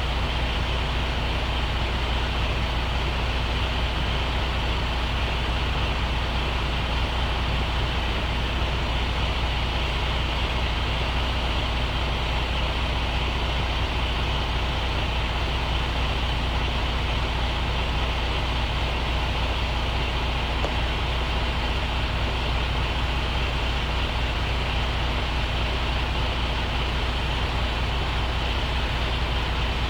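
A truck's diesel engine running at a steady speed, a constant low drone that does not change.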